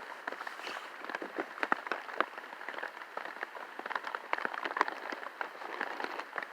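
Rain falling, with dense, irregular taps of raindrops hitting a nearby surface.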